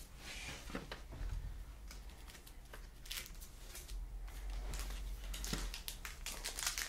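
Trading cards and their packaging being handled on a desk: light rustling, sliding and small clicks of card stock, growing busier about halfway through.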